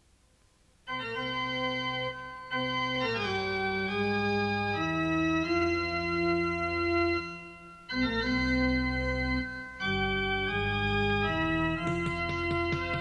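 Music: a keyboard plays slow, sustained organ chords, changing every second or two. It starts about a second in, after a brief near-silent gap, and other instruments come in near the end.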